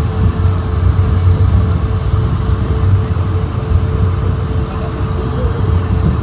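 Steady cabin noise inside an Airbus A220-100: a loud, deep rumble of its engines and airframe with a steady hum over it, as the airliner runs on the ground after landing.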